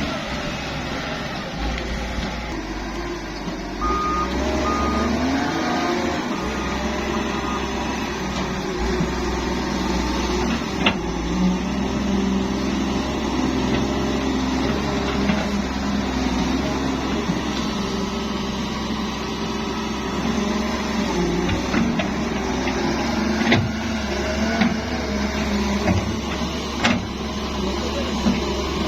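Heavy diesel machinery, a wheeled excavator working alongside dump trucks, running steadily with its engine note shifting under load. A reversing alarm beeps about six times a few seconds in, and there are a few sharp knocks later on.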